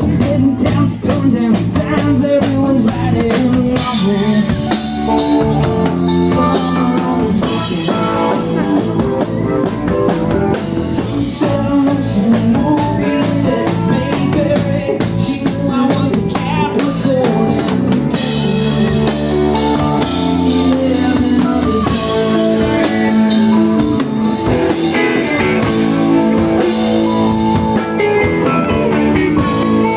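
Live rock band playing: electric guitar over a steady drum-kit beat, with blues-rock feel.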